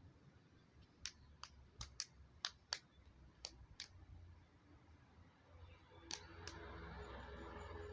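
A string of sharp, irregular clicks, about eight close together in the first half and two more later, over a faint low hum.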